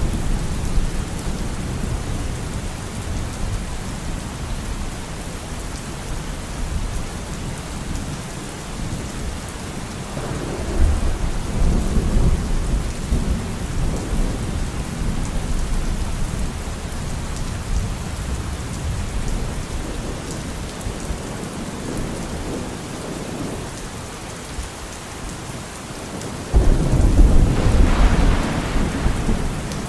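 Steady rain falling, with thunder rumbling: a low rumble swells about ten seconds in, and a louder one starts suddenly near the end.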